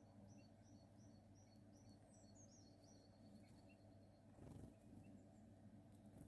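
Faint song of a small songbird: a run of repeated high two-note phrases, then a quick high trill, over a steady low hum. A soft thump about four and a half seconds in.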